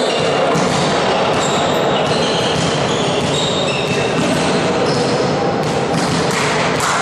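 Sound of a game in an indoor sports hall: a steady din of players and spectators, with short high squeaks coming and going and a few sharp thuds, louder near the end.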